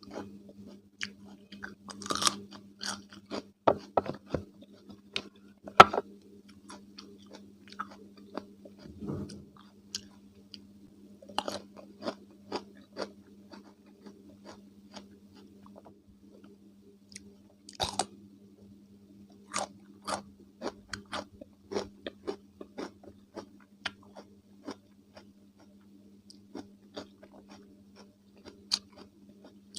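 Close-miked crunching and chewing of raw cucumber with mayonnaise: sharp, crisp bites and wet crackles at an irregular pace, over a steady low hum.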